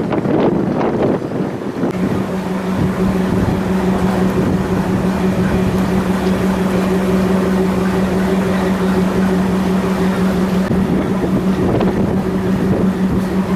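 Strong wind buffeting the microphone, with a steady engine hum that comes in about two seconds in and holds one pitch.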